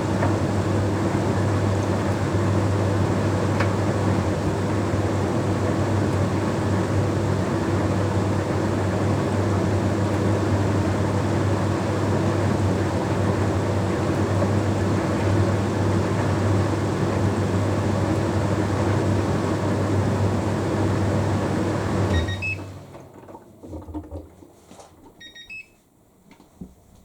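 Bosch Series 6 heat pump tumble dryer running steadily with a low hum as its Shirts cycle finishes. Near the end it stops suddenly, and a few short high beeps follow, signalling the end of the cycle.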